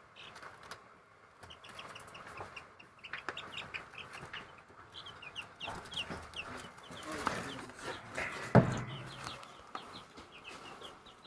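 Newly hatched chicks peeping: many short, high, falling cheeps overlapping all through. A single sharp knock sounds about eight and a half seconds in.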